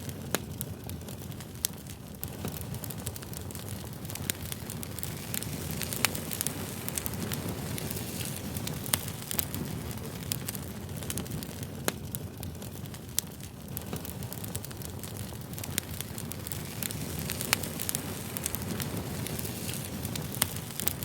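Wood campfire burning: a steady low rush of flames with irregular sharp crackles and pops from the burning wood, a few louder snaps standing out.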